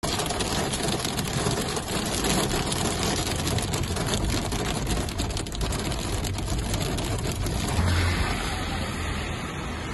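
Heavy rain beating on a car's windshield and body as it drives, a dense hiss full of sharp ticks from the drops, over the car's engine and tyres. About eight seconds in it gives way to a steadier wash of rain and traffic on a wet city street.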